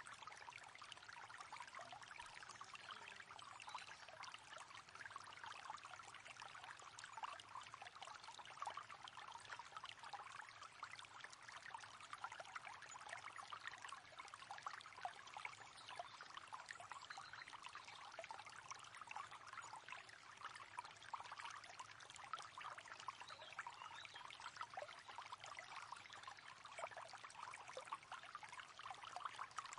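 River water flowing steadily, a continuous fine babble of splashing and trickling.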